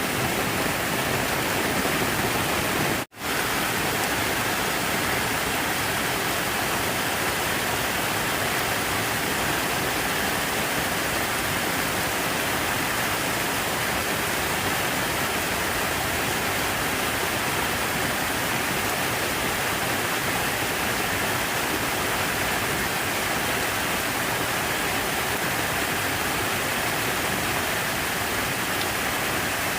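Steady rush of falling water, an even hiss with no pattern or rhythm. It cuts out completely for a split second about three seconds in, then carries on unchanged.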